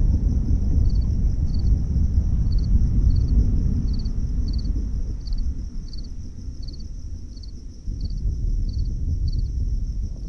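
Low rolling thunder rumble that dies down through the middle and builds again near the end. Under it, crickets and other insects keep up a steady high trill, with a cricket chirping about every two-thirds of a second.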